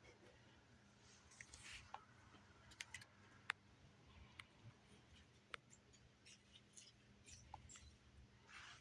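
Near silence: quiet room tone broken by a dozen or so faint, short clicks and ticks at irregular moments, the sharpest about three and a half seconds in.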